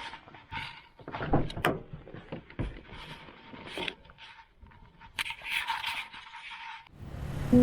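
Irregular knocks, clicks and rustling of objects being handled.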